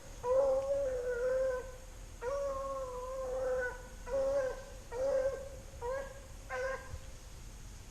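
Beagle baying on a rabbit's trail: two long, drawn-out bawls followed by four short, quicker bays, all on a steady pitch.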